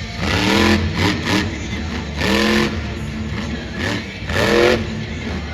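Monster truck's supercharged, alcohol-fuelled V8 engine revving hard three times, each rev rising sharply in pitch, over a steady low rumble.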